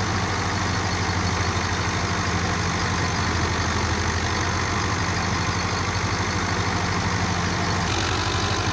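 Tractor diesel engine running steadily with an even, rapid pulse, its sound shifting slightly just before the end.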